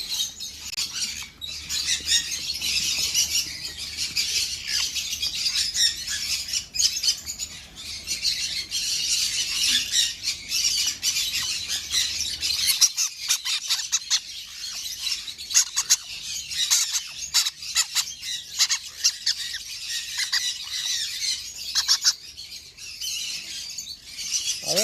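A flock of small caged parrots chattering and squawking continuously, many high-pitched calls overlapping at once.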